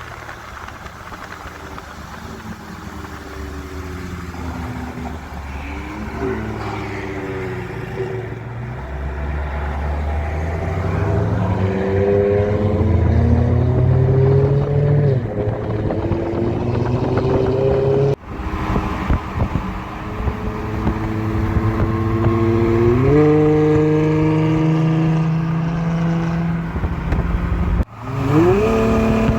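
Straight-piped V6 exhaust of a Dodge Charger GT with Super 10 mufflers, the engine revving hard. Its pitch climbs over several seconds at a time and jumps up in steps. The sound breaks off suddenly twice, at about 18 and 28 seconds.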